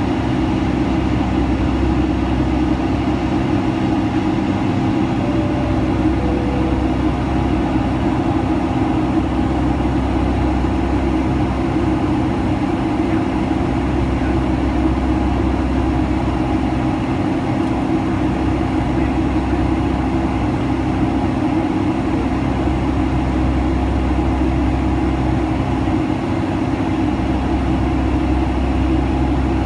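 Steady cabin drone of a Boeing 757-200 climbing out: engine and airflow noise with a low, even hum. A faint two-note tone, high then low, sounds about five seconds in.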